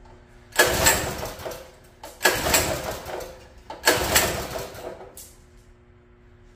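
Predator small engine on a mini bike being pull-started three times, about a second and a half apart; each pull turns it over briefly, but it does not catch. The speaker puts this down to no fuel reaching the engine.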